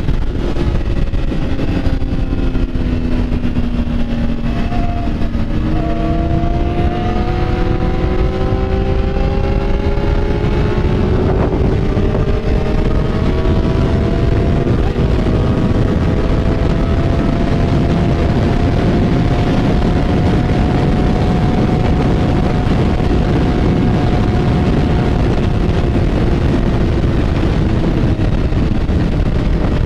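Motorcycle engine running while riding, its pitch falling in the first few seconds, climbing from about six seconds in, then holding fairly steady, over a constant rush of noise.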